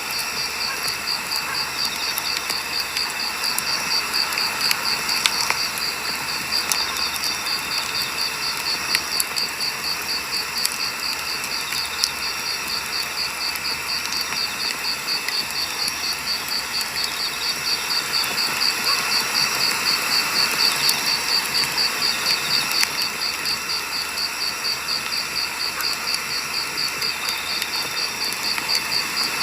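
Wood fire burning, with a steady hiss and scattered sharp pops of crackling firewood. Crickets chirp in a rapid, even high-pitched pulse throughout.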